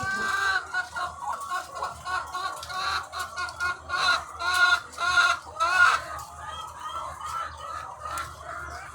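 A large flock of egg-laying hens clucking and calling, many overlapping calls at once, loudest from about four to six seconds in.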